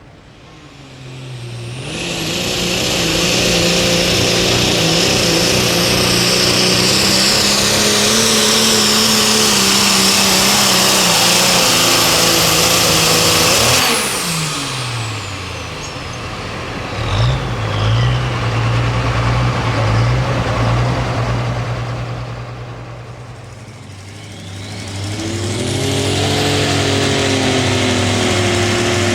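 Turbocharged diesel super stock pulling tractor running flat out under load with a high turbo whine, then shutting off suddenly about halfway through, its whine falling away. A lower engine then idles, and near the end another pulling tractor revs up.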